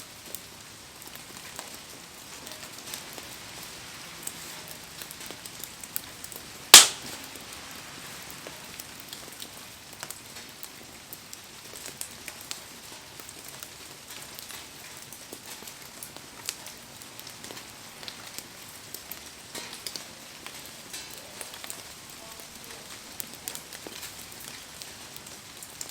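Wood fire crackling in heavy rain, with rain pattering and many small pops throughout. One loud, sharp pop about seven seconds in.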